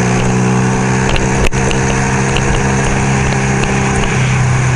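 1975 Kawasaki KZ400 cafe racer's parallel-twin engine running at a steady cruise while riding, its pitch easing down slightly and then shifting near the end, with wind rumbling on the microphone. A single sharp click about a second and a half in.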